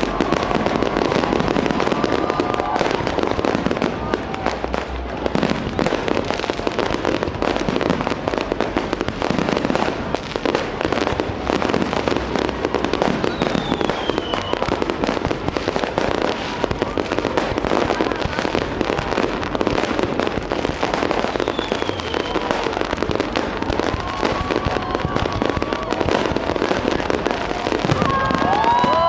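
A dense, continuous barrage of fireworks bursting and crackling, with people's voices heard near the start and the end.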